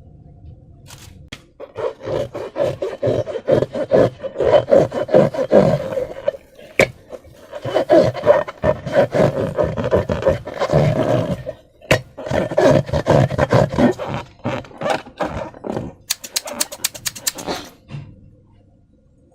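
Hands squeezing and stretching slime, giving a loud run of rapid crackling and squelching in bursts, with short breaks and a fast regular clicking near the end.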